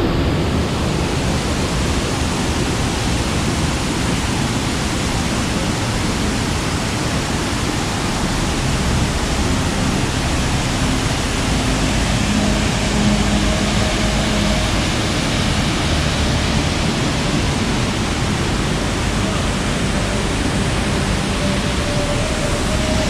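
Loud, steady rush of falling water, an even roar with no breaks, from a waterfall or torrential rain.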